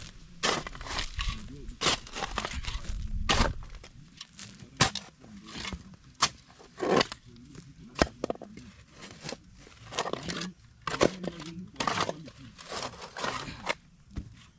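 Hand digging in soil: a digging tool strikes and scrapes into earth over and over, irregular crunching blows about once a second.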